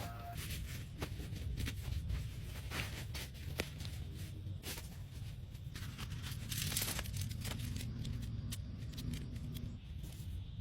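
Raindrops tapping irregularly on a tent, over a low steady rumble.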